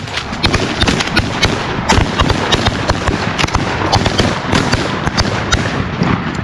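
Rapid volley of shotgun fire from several goose hunters shooting at once, the shots overlapping at several a second.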